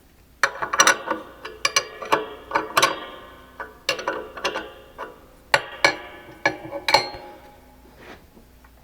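Hard objects being handled and knocked together, with a ringing, metallic-sounding clatter: about twenty irregular sharp knocks that stop about seven seconds in.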